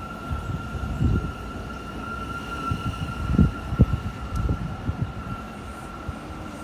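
New York City Subway shuttle train at a station, giving off a steady high whine, with irregular low thumps.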